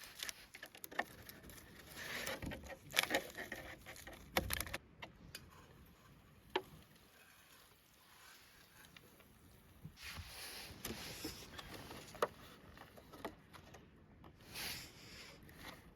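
Light rustling with scattered small clicks and taps, the sound of gear being handled by hand, busiest in the first few seconds and again in the second half.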